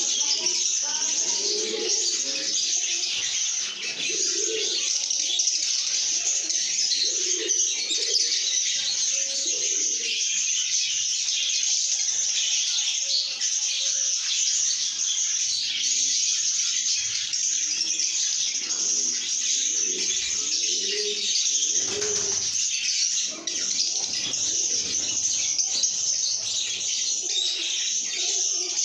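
A flock of lovebirds chattering and chirping without pause in a dense, high-pitched din, with lower cooing notes mixed in now and then.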